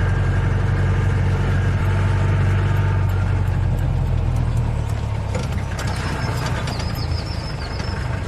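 Safari vehicle's engine running steadily with a low hum. A run of short, high chirps comes in over it for the last couple of seconds.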